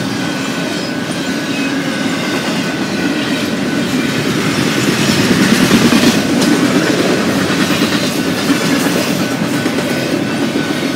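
Double-stack container well cars of a long freight train rolling past, their steel wheels on the rails making a steady rumbling, clattering noise that grows a little louder about halfway through.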